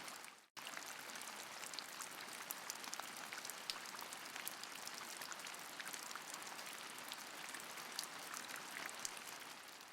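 Steady rain falling, a soft hiss of many small drop ticks. It cuts out for a moment about half a second in, then resumes and fades away at the end.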